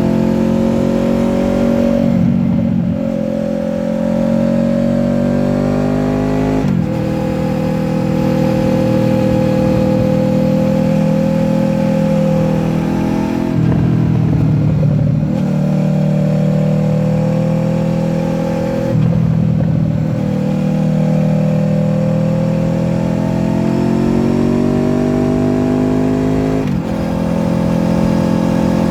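Honda VFR800F's V4 VTEC engine with an SC-Project exhaust, pulling hard up through the revs with the pitch rising steadily, then dropping sharply about four times as the revs fall away and pick up again.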